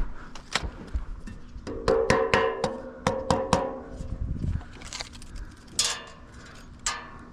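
Masonry work: sharp taps with a short metallic ring, typical of a trowel knocking bricks down into fresh mortar to set them. There is a quick run of taps about two to four seconds in, with single knocks before and after.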